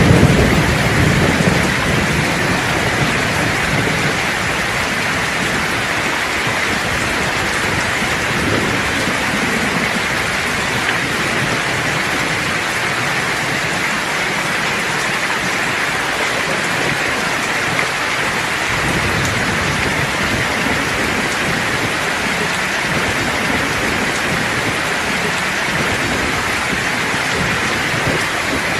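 Steady heavy rain falling, with a rumble of thunder dying away in the first couple of seconds and fainter low rumbles of thunder later on.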